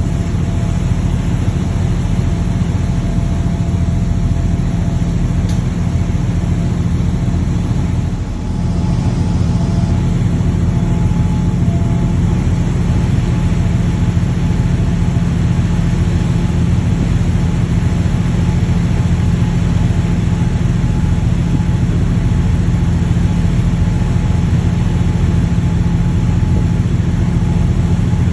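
A boat's engine running steadily: a loud, even low drone with a constant hum, dipping briefly about eight seconds in.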